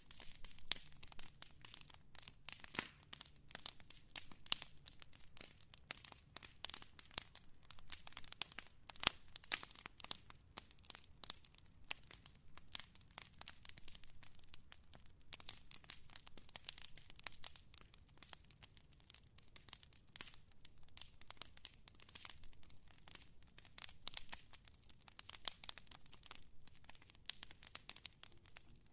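Fire crackling: a dense, irregular stream of sharp snaps and pops, several a second, with an occasional louder pop.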